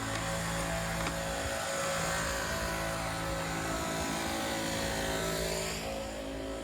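City street traffic: a vehicle driving past with a broad tyre hiss that fades away near the end, over a steady hum.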